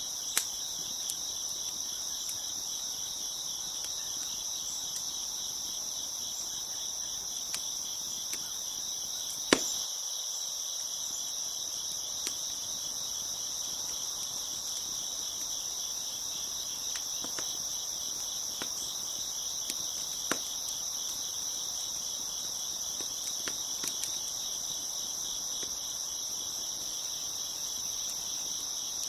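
A continuous chorus of crickets chirping steadily, with a fast shimmering pulse. Occasional sharp pops and crackles from a wood fire sound over it; the loudest pop comes about a third of the way in and another about two-thirds in.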